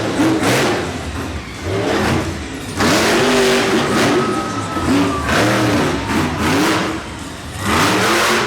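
Monster truck engine revving hard in repeated surges, its pitch climbing and falling about four times as the throttle is blipped and opened up.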